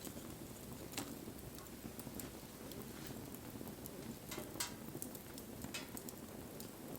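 Wood campfire burning, with irregular sharp crackles and pops over a low steady rustle of flame, a few louder pops about a second in and again between four and six seconds in.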